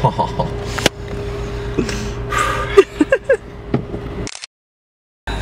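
Car engine running, heard from inside the cabin as a steady low hum with a faint held whine, broken by a few sharp clicks and knocks. The sound drops out completely for under a second near the end.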